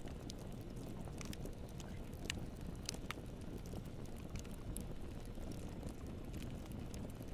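Wood fire burning with a steady low rumble and scattered sharp crackles and pops, a few louder pops about two to three seconds in.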